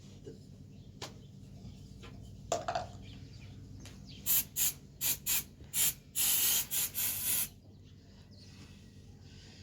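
Aerosol spray can hissing in five or six short bursts, then one longer spray of over a second that cuts off. A couple of soft knocks come before it.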